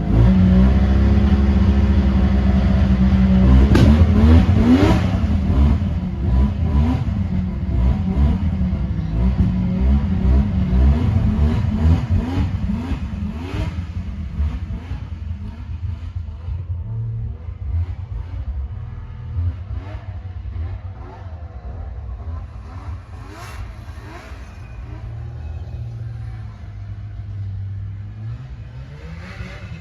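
Yamaha V-Max three-cylinder two-stroke snowmobile engine running. It is revved sharply about four seconds in, then settles to a lower, uneven running and rises again near the end.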